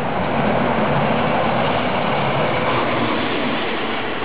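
An electric-locomotive-hauled regional passenger train passing close by at speed: a steady loud rush of wheels on rails with a faint low hum.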